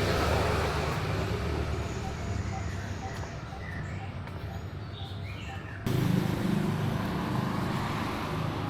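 Outdoor street ambience: a vehicle's rumble fading away, with faint bird chirps, then an abrupt jump to louder traffic noise about six seconds in.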